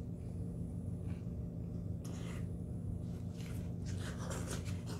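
A man chewing a mouthful of burger: soft, irregular mouth sounds, clustered from about two seconds in to the end, over a steady low hum.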